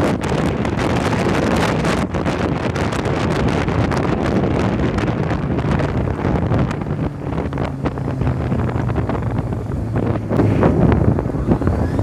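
Heavy wind noise buffeting the microphone while riding a Kawasaki ZX-6R sport bike at speed, with the bike's inline-four engine running underneath and a steady engine tone showing through about two-thirds of the way in.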